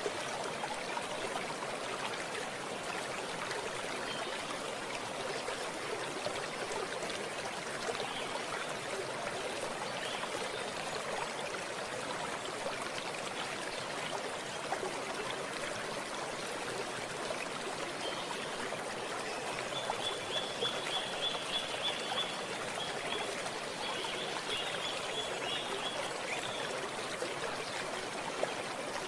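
A stream of running water flowing steadily. About two-thirds of the way through, a rapid high-pitched trill of repeated notes sounds for several seconds over the water.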